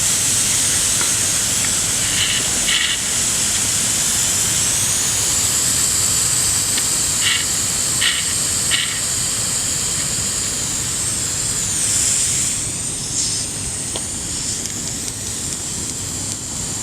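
Loud, steady hiss of refrigerant escaping at a car AC system's service ports as manifold gauge hoses are hooked up, wavering in pitch. It is broken by a few short squeaky chirps about two, seven and eight seconds in.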